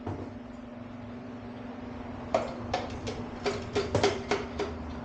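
A run of about ten light, irregular metallic clicks and taps with a short ring, from tools working on engine parts during an LT-1 teardown. They start a couple of seconds in, over a steady hum.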